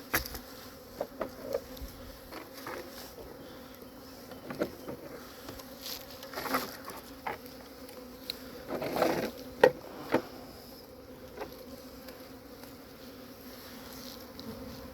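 Honeybee swarm buzzing, a steady low hum. Scattered clicks and knocks from the hive box and its frames being handled, the sharpest about nine and a half seconds in.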